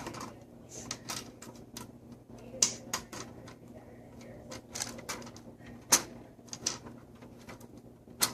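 Plastic toy train track pieces being handled and clicked together: a run of irregular clicks and clacks, the loudest about six seconds in.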